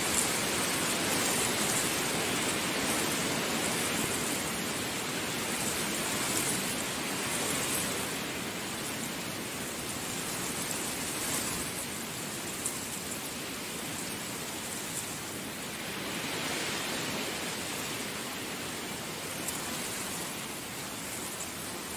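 Heavy rain falling steadily, a dense hiss that swells and eases slightly over several seconds.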